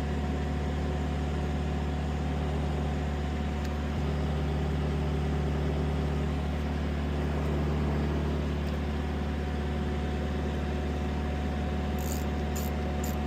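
Steady low mechanical hum, like an engine idling, with a few light clicks near the end.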